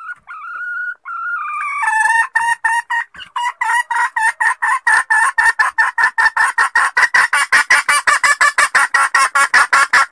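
Junglefowl hen calling: one drawn-out note first, then a long run of rapid clucks that speed up to several a second and grow louder. This is a hen's lure call, used to draw a junglefowl cock out of cover.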